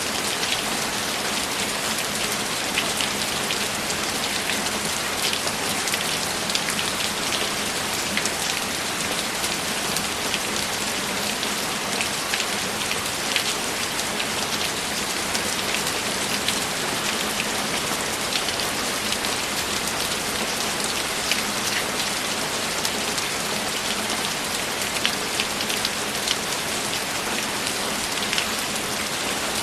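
Steady, unbroken rainfall, with many individual drops ticking sharply against the even hiss.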